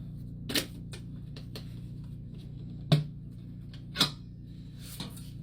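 A small safe being handled: about four sharp clacks and knocks spread over a few seconds, the two in the middle the loudest with a dull thud, over a steady low hum.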